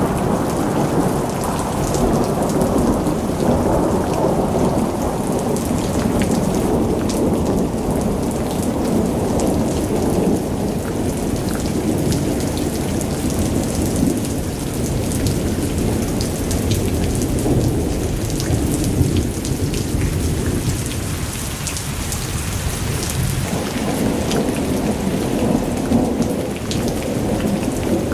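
Blizzard wind and a wood fire mixed together: a dense, steady low rush of wind that swells and eases slowly, with fine crackling of burning wood throughout.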